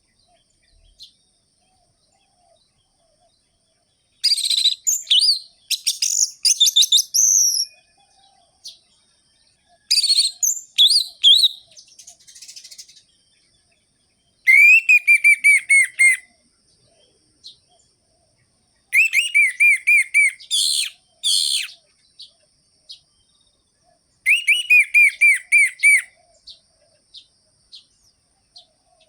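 Orange-headed thrush (anis merah) singing in about five short phrases, with pauses of a few seconds between them. Some phrases are fast, varied high twittering; others are quick runs of repeated, down-slurred whistled notes.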